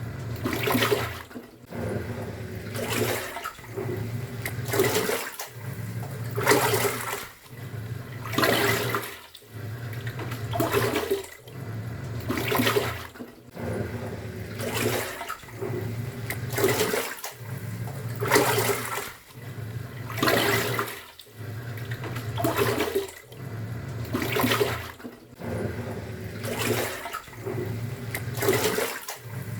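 Top-loading pulsator washing machine in its wash cycle, sloshing laundry and water back and forth. The motor hum cuts out and a loud swish of water comes about every two seconds as the pulsator reverses direction.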